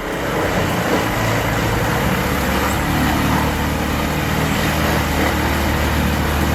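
Vermeer WC2500XL whole-tree wood chipper running steadily, its Cummins QSX15 diesel engine droning low under a dense, even grinding noise.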